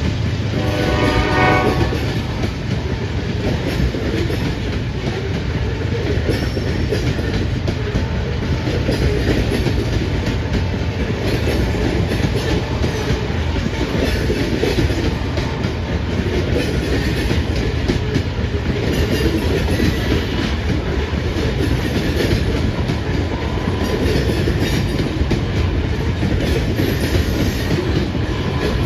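Loaded grain train's covered hopper cars rolling past, steel wheels rumbling and clattering steadily on the rails. A brief pitched tone sounds about a second in.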